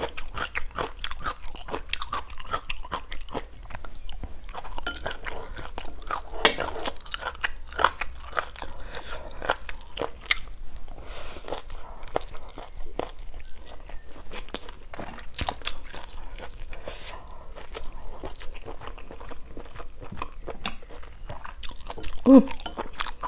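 A person chewing close to a clip-on microphone, with crisp crunching bites of stir-fried asparagus and wet, clicking mouth sounds throughout.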